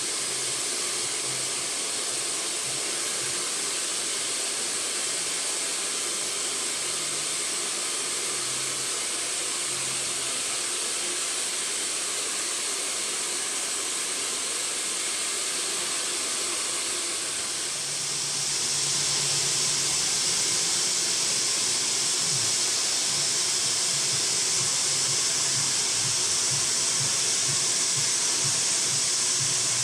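Handheld hair dryer blowing steadily. It grows louder and brighter about eighteen seconds in.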